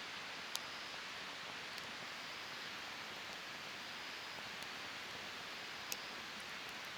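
Wood campfire burning with a steady soft hiss, with two sharp crackles, one about half a second in and one near six seconds.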